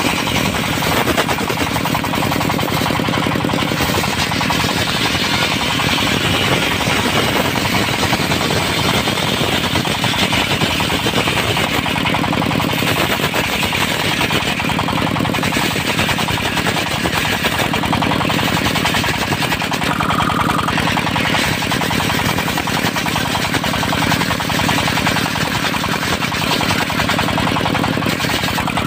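Diesel engine of a mobile circular sawmill running steadily with a rapid chattering beat, as the circular blade saws through dry teak wood.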